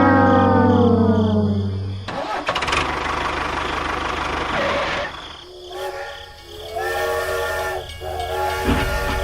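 A pitched horn-like tone sliding downward, then a few seconds of noise, then several held horn-like tones with short gaps between them.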